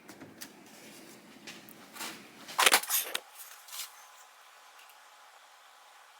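Scattered light clicks, then a quick cluster of sharp clicks and rattles about two and a half seconds in, one more click a second later, then quiet: small hard objects being handled.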